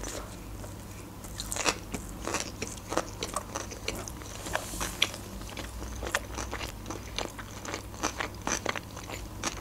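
Close-miked chewing of a mouthful of sushi roll: irregular wet, crunchy clicks, a few a second.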